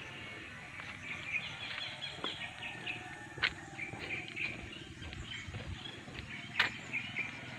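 Small birds chirping and twittering in many short, quick calls, with a sharp click about halfway through and a louder one near the end.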